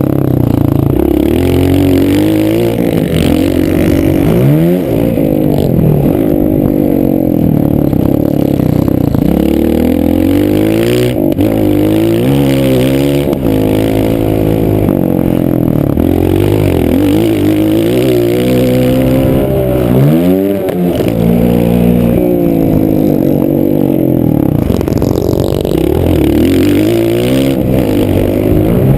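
Motocross bike engine heard from a camera on the bike, revving hard and dropping back again and again as the rider accelerates, shifts and brakes around the track.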